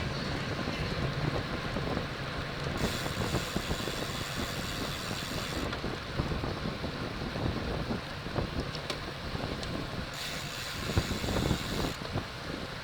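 Wind buffeting a camera microphone on a bicycle moving at racing speed, a steady rushing noise with gusty low thumps.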